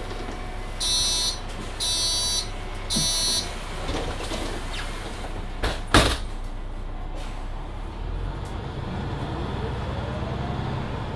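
Mercedes-Benz Citaro C2 Hybrid city bus: the door warning tone beeps three times, the doors shut with a sharp knock about six seconds in, and the bus then pulls away, its drive rising in pitch with speed.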